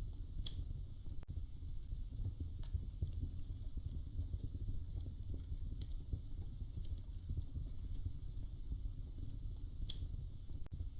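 Wood fire crackling in a fireplace: a steady low rumble of burning with about five sharp pops scattered a couple of seconds apart.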